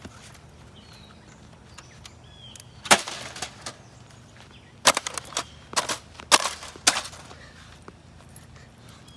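A series of sharp crashing impacts: one about three seconds in, then a quick cluster of four or five between about five and seven seconds in, over a faint steady low hum.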